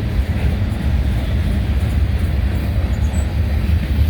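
Freight train cars rolling past at close range: a steady, heavy low rumble of wheels on rail.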